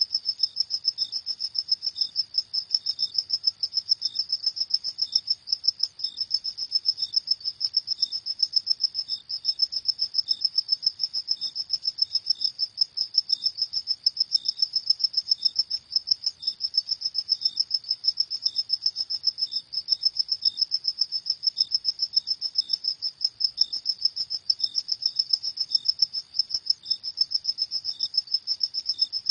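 Crickets chirping at night in a steady, rapid, high-pitched trill, with fainter, slower chirps from another cricket underneath.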